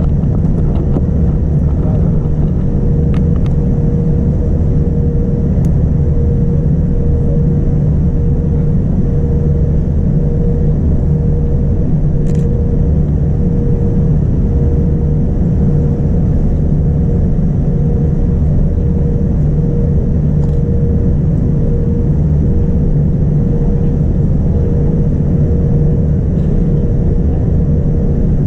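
Steady cabin noise inside a Boeing 787-9 Dreamliner airliner: a constant low rumble of engines and airflow with a steady hum, unchanging throughout, with a few faint ticks.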